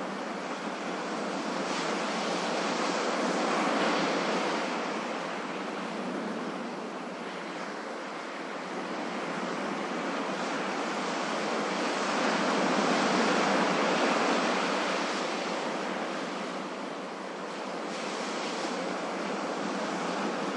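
Ocean surf: a continuous wash of waves that swells twice to a louder surge and eases back in between.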